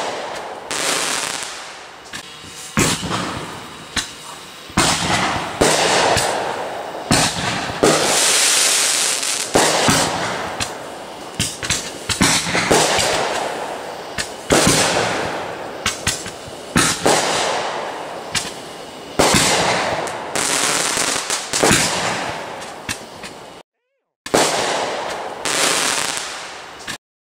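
Fireworks going off in a rapid string of loud bangs, one every second or two, each dying away in a crackle before the next. There is a short break a little before the end.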